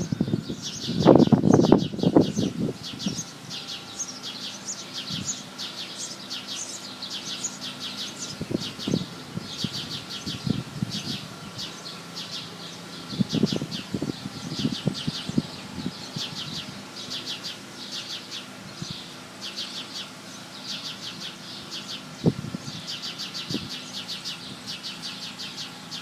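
Small birds chirping in fast, repeated runs of high notes without a break. There are low rustling bursts in the first few seconds and a few soft knocks later.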